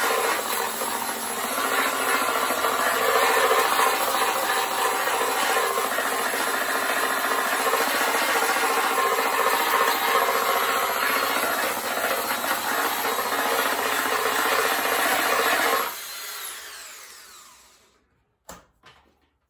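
Small electric mini grinder cutting into a fiberglass body panel, running steadily with a rasping grind, then switched off about 16 seconds in, its whine falling away as it spins down. Two short clicks follow near the end.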